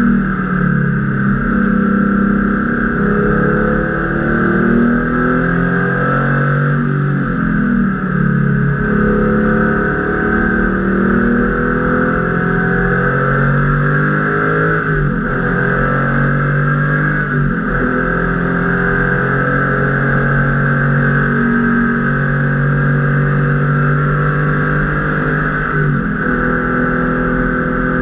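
Porsche 993 RS Club Sport's air-cooled flat-six engine at racing speed, heard from inside the cabin. The revs climb and fall repeatedly as the driver shifts through the gears.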